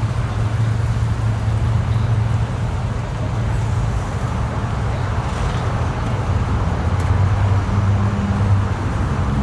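Car engine idling steadily with a low hum, its pitch shifting slightly about eight seconds in.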